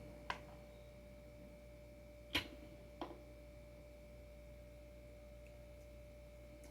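Three short, light clicks of skateboard adapter parts being handled and set down, the loudest about two and a half seconds in, over a faint steady hum.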